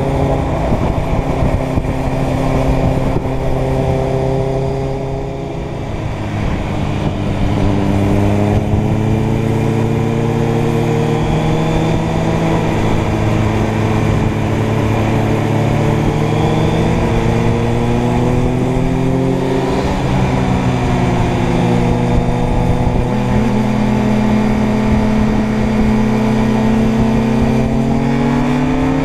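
Inline-four motorcycle engine running under way. It eases off about five seconds in, pulls steadily again, and revs up near the end.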